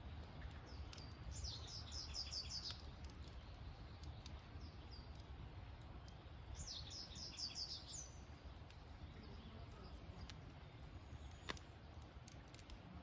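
Campfire crackling with scattered sharp pops. Two short bursts of rapid, high-pitched chirping come about four seconds apart.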